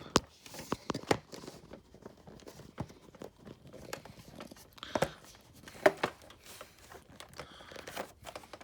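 Hard plastic parts of a Hoover Elite's tool converter clicking and knocking irregularly as it is worked onto the bottom of the vacuum's rug plate, with louder knocks about five and six seconds in; the converter is not fitting well.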